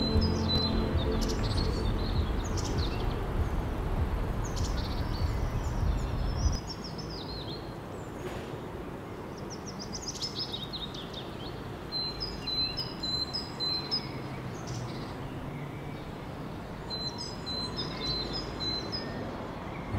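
Birds chirping and singing in quick series of repeated notes over a steady outdoor hiss. Background music with sustained low notes plays under them until it cuts off about six and a half seconds in.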